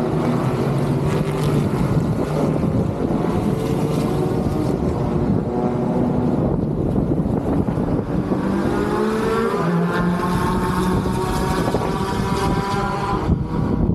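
Engines running, their tones rising in pitch from about eight seconds in, over a steady rush of wind noise.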